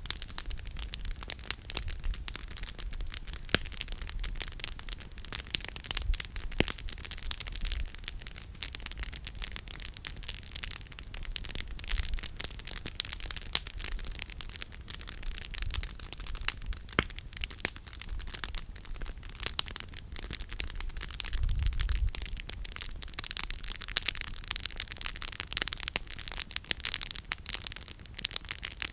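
Wood campfire crackling, with frequent irregular sharp pops and snaps over a steady hiss of burning. A brief low rumble comes about three-quarters of the way through.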